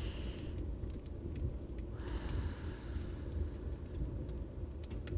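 Rain and crackling fireplace ambience: a steady low rumble with scattered sharp pops, and a brief hiss about two seconds in.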